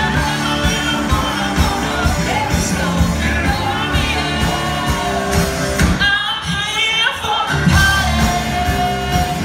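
Live band playing a country-rock song with a lead singer over drums, bass and guitars. Around six seconds in the drums and bass drop out for about a second and a half while the voice carries on, then the full band comes back.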